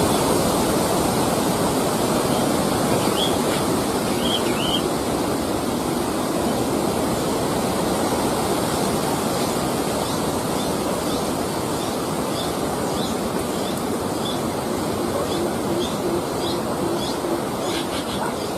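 Steady, loud rushing noise, with faint high bird chirps over it: a few about three to five seconds in, then a regular run of short chirps about twice a second through the second half.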